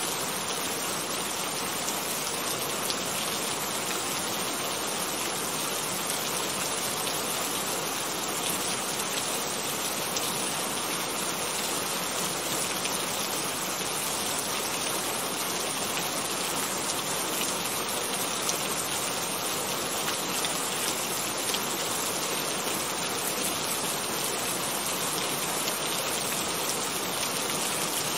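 Steady rain, an even hiss of falling drops that holds level throughout.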